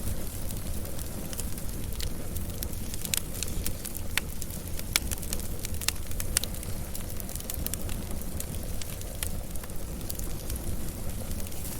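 Wood fire burning: a steady low rumble of flames with frequent sharp crackles and pops. The pops come thickest between about three and seven seconds in.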